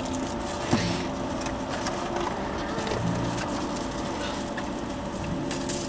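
Car engine idling, heard from inside the cabin, with a short knock about a second in.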